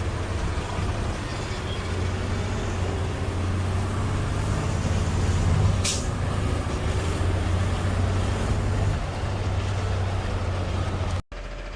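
Garbage truck engine running steadily while driving, heard from inside the cab, with a short hiss of air about six seconds in. The sound cuts off abruptly near the end.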